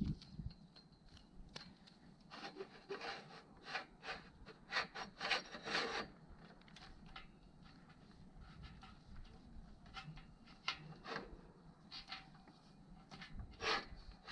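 Intermittent rubbing and scraping with scattered light knocks as equipment is handled, in clusters about two seconds in and again toward the end.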